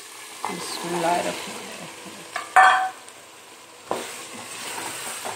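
Boiled chickpeas tipped into hot sizzling masala in a steel pot and stirred with a wooden spoon, frying under a steady hiss. A sharp metallic clank about two and a half seconds in, and a knock near the end.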